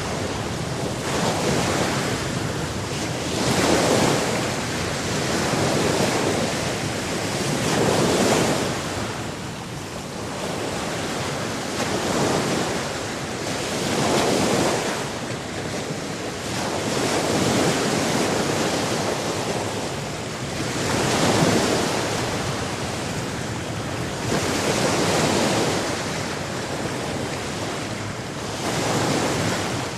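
Sea surf: waves washing in and drawing back over a steady rush of water, swelling every three to four seconds.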